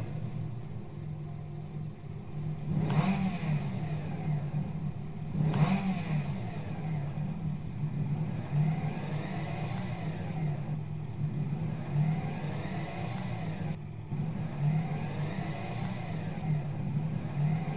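Car engine idling steadily, revved up in several short throttle blips that each fall back to idle.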